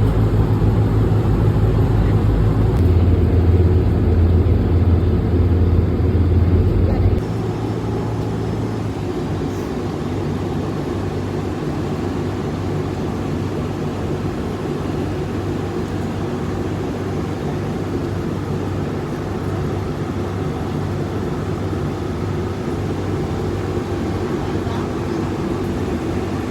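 Steady drone of a running vehicle engine, with low hum and road or hull noise. About seven seconds in, the sound drops abruptly to a quieter, steadier drone.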